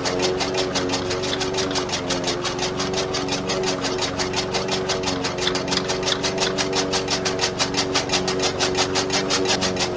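Small motor running a homemade model chaff cutter: a steady hum with a rapid, even ticking.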